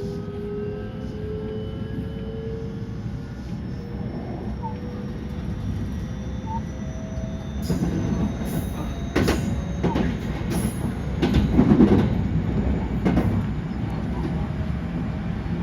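JR West 223 series 2000 electric train accelerating: the motor whine slowly rises in pitch over the running noise. About halfway through, a run of irregular heavy clunks sets in as the wheels cross rail joints and points.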